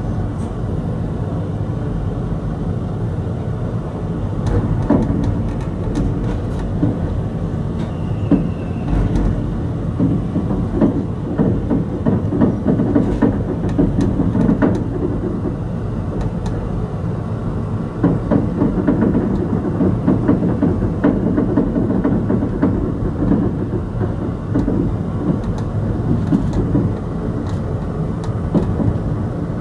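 Ride noise heard from inside a passenger train car rolling along the track: a steady rumble of the wheels on the rails, with scattered clicks and rattles. The rumble swells louder in a couple of stretches.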